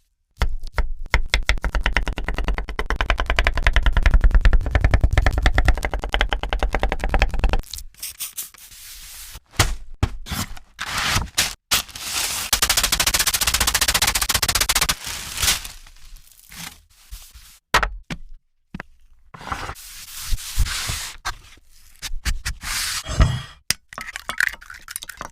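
Cut-together kitchen sounds of fried chicken being prepared: a long stretch of rapid crackling for the first several seconds, then shorter bursts of crackling and scraping broken off by sudden cuts.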